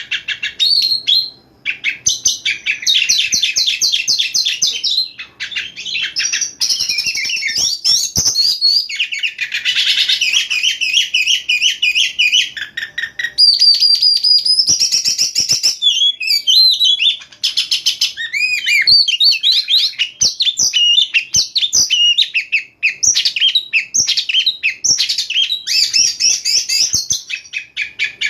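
Oriental magpie-robin (kacer) singing a loud, fast, unbroken song of varied whistles, trills and rapid repeated note runs, with only brief pauses.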